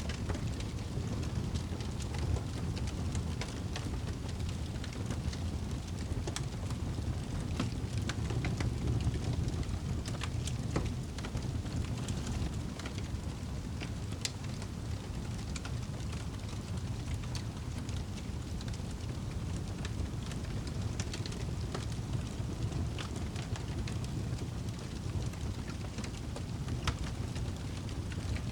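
Campfire burning, with irregular small crackles and pops over a steady low rushing background.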